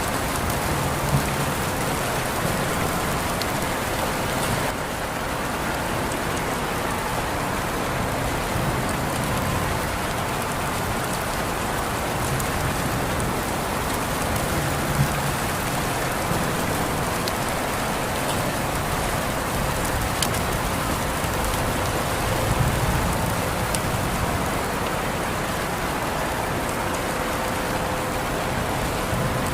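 Steady rain falling, an even hiss with a few sharper single drop ticks now and then.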